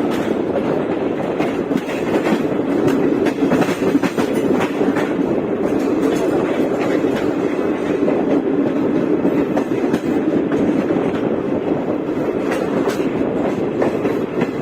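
Indian Railways express passenger train running at speed: a steady rumble of the coaches with frequent clicks of wheels over the rail joints.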